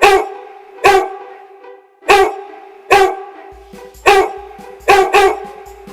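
A dog barking: about seven single barks, roughly a second apart.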